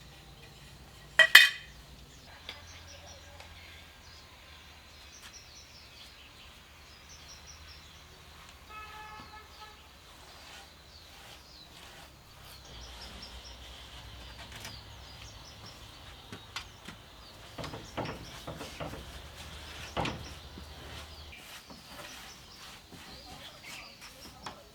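Small birds chirping in the background, with one sharp knock about a second in and a scatter of lighter knocks and clicks later on.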